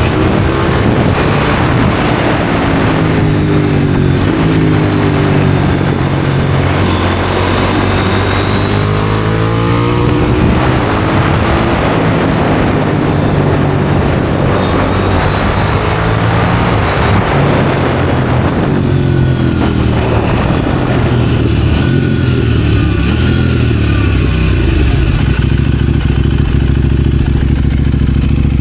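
KTM 790 Duke's parallel-twin engine through an IXRACE aftermarket exhaust, accelerating hard with the pitch climbing and then dropping at each gear change, with wind rushing past. Near the end it settles into a steady, lower engine note.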